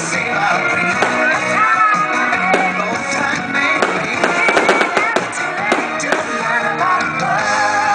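Music playing, with fireworks cracking and popping over it; a quick cluster of crackles comes about four to five seconds in.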